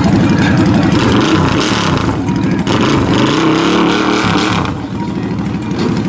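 Radio-controlled rock crawler and monster truck motors running, their pitch rising and falling again and again as they speed up and slow down.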